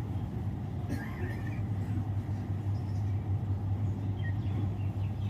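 A steady low hum, with a few faint, brief chirps about a second in and again near the end.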